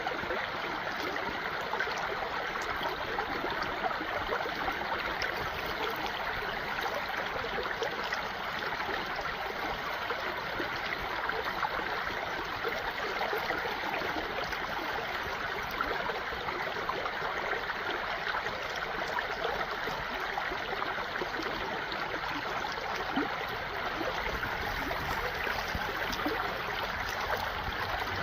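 A stream of running water flowing steadily, an even rush with a fine babbling texture and no change in level.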